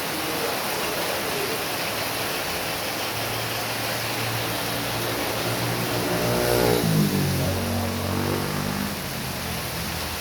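Heavy rain falling steadily while a motor vehicle drives past: its engine hum grows from about three seconds in, is loudest about seven seconds in, then drops in pitch and fades away.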